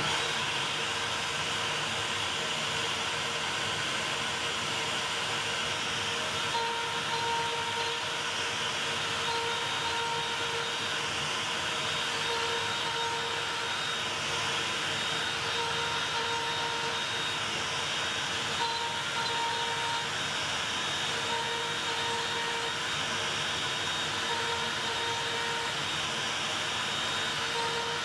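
A Makita router spins steadily on a CNC machine, with a short whine that switches on and off every second or two as the machine moves.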